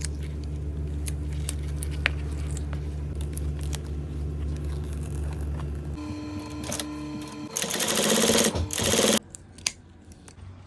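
A small electric machine motor runs with a steady low hum. About six seconds in it changes to a higher-pitched whine, then two loud hissing bursts follow and cut off sharply near the end.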